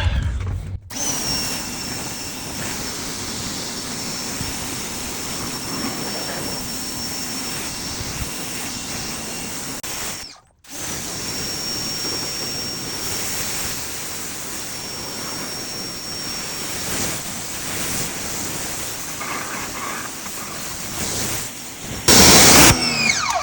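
Electric pressure washer, a Ryobi, running and spraying water, with a steady hiss and a high whine from its motor. It stops briefly about ten seconds in, then starts again with the whine sliding down as it comes up to speed. A louder burst of spray comes near the end.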